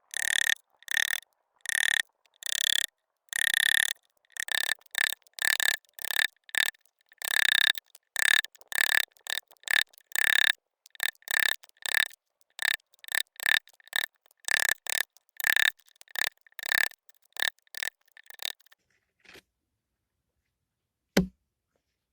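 Turning tool cutting wood on a homemade lathe, in rhythmic strokes about two to three a second, each a short rasp with a high squeak. The strokes stop near the end, followed by a single sharp knock.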